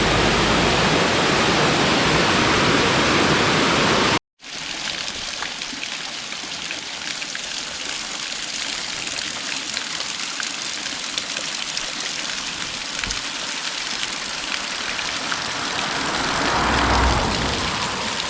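Creek water rushing and cascading steadily. A hard cut about four seconds in drops it to a softer cascade that swells for a moment near the end.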